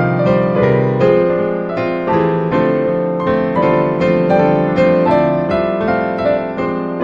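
Background piano music: a steady run of notes, each struck and then fading.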